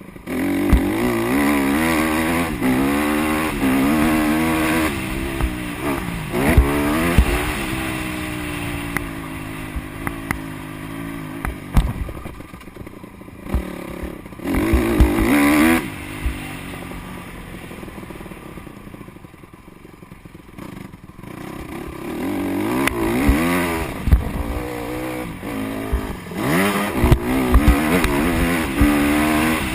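Honda CRF150R single-cylinder four-stroke motocross bike revving up and down repeatedly, growing louder and fainter as it moves around the track. It is faintest about two-thirds through and comes back loud near the end.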